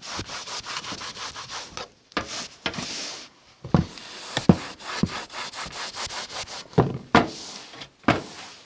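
Rubbing and scraping on a wooden cupboard door as a mirror is handled and fitted against it, with several sharp knocks in the second half.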